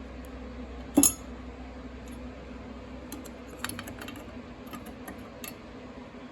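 Metal engine parts, the bearing shells, being handled by hand: one sharp clack about a second in, then a scatter of light clinks and taps, over a steady low hum.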